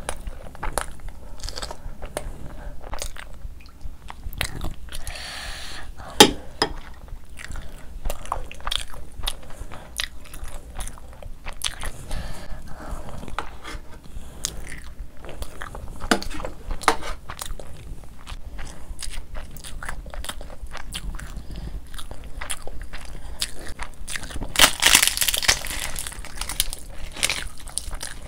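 Close-up eating sounds: wet chewing and mouth clicks of someone eating mutton curry, chickpea curry and rice by hand, with a sharp click about six seconds in and a louder, noisier stretch near the end.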